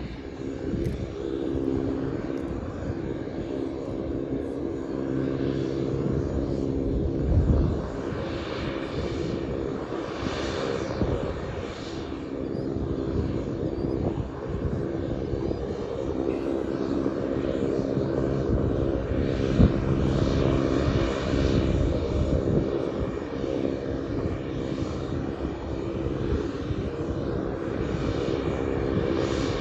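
Pilatus PC-12's single turboprop engine running, a steady propeller drone with several even tones. Its hiss swells up about a third of the way in and again about two-thirds in.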